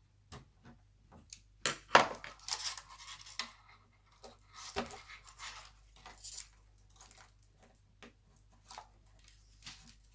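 Hands and a small screwdriver working on an opened laptop: scattered light clicks and taps of small parts, with the loudest knock about two seconds in followed by a second of scraping, and another cluster of clicks and scraping about five seconds in.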